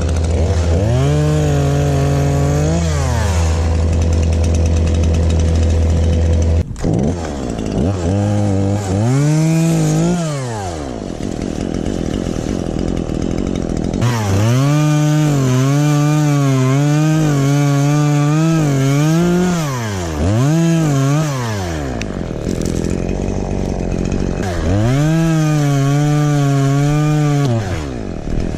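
Stihl two-stroke chainsaw cutting, throttled up in several bursts and dropping back to idle between them. The longest burst lasts about five seconds, midway through.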